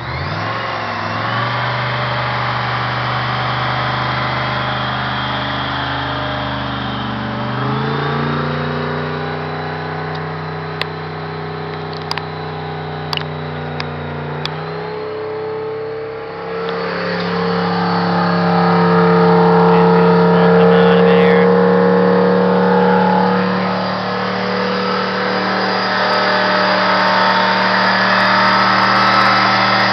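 1995 Oldsmobile Aurora's 4.0-litre V8 catching and running fast, its oil drained and replaced with a salt, water and silica solution meant to seize it. The engine speed steps up about 7 seconds in, drops briefly around halfway, then climbs higher again, with a few light ticks in the middle.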